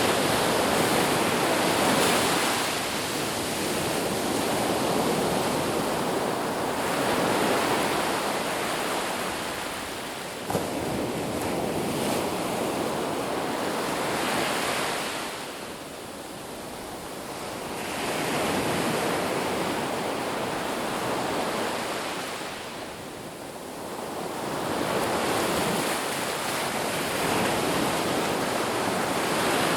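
Ocean surf washing onto a beach: a continuous rush of waves that swells and ebbs every several seconds as each wave breaks and draws back. There is one brief tick about ten seconds in.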